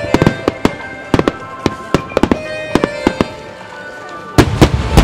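Starmine firework shells bursting in quick succession, several sharp bangs a second. The heaviest, deepest booms come in a cluster near the end. Music with long held notes plays underneath.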